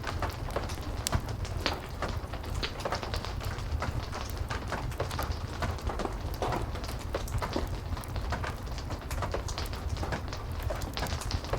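Heavy steady rain together with a crackling fireplace: a constant rush of rain over a low rumble, broken by frequent small sharp pops and ticks.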